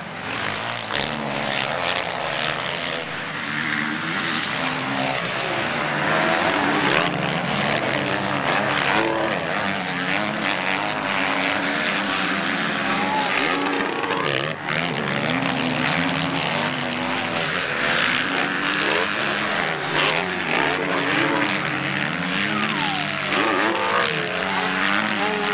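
Several motocross motorcycle engines revving up and down at once, overlapping as the bikes race. Near the end one engine's pitch falls sharply.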